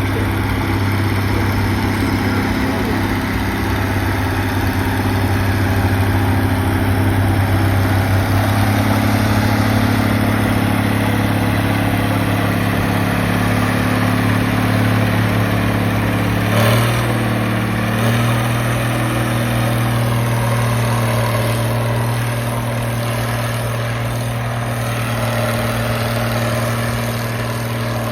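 Tractor engine running hard and steady through a tractor pull. Near the end there is a brief clatter, after which its tone shifts slightly.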